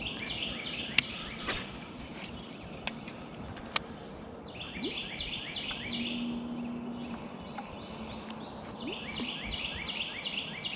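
A songbird singing phrases of quick repeated notes, three bursts a few seconds apart, over a steady outdoor background. A few sharp clicks sound in the first four seconds.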